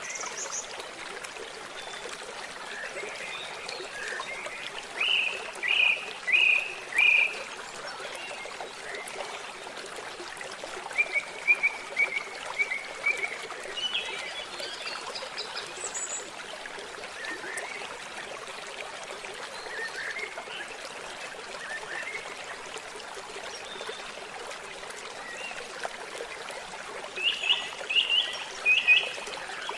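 Trickling stream with birds calling over it. One bird gives a quick run of three or four loud notes about five seconds in and again near the end, with fainter chirps and short note series in between.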